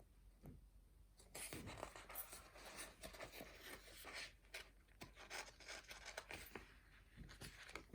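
Faint paper rustling with small crackles, as a picture book's pages are handled and turned; it starts about a second in and dies away near the end.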